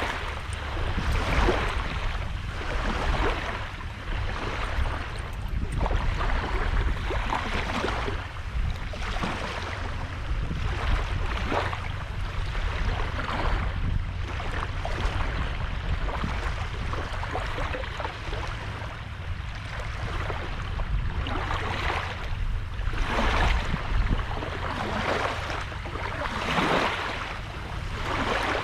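Small sea waves breaking and washing ashore, one wash after another every second or two, over a steady low rumble of wind on the microphone.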